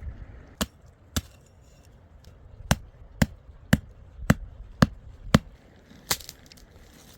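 Wood being chopped: sharp strikes of a blade into wood, two and then, after a pause, a steady run of six about two a second, with a softer strike near the end.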